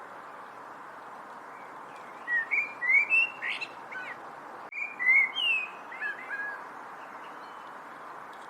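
A songbird singing two short phrases of quick, gliding whistled chirps, starting about two seconds in and again about five seconds in, over a steady background hiss.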